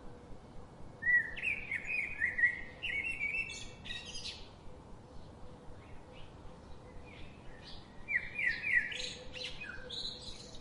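A songbird singing two long, rapid warbling phrases, the second about four seconds after the first, over a steady background hiss.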